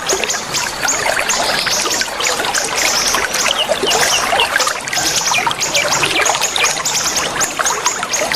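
A dense chorus of many small songbirds chirping and trilling rapidly over the steady trickle of running water, with a thin steady high tone in the background.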